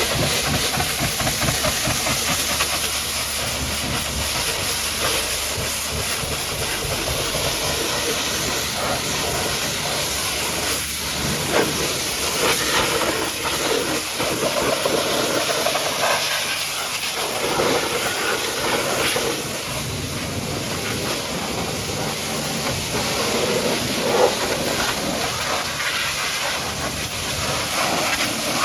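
High-pressure washer jet spraying water, a steady loud hiss that rises and falls a little as the spray moves over the surface.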